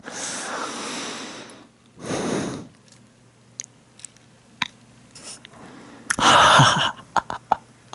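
A man's breathy, noisy huffs close to the microphone: a long one at the start, a short one about two seconds in, and a louder one near the end, with faint clicks in between.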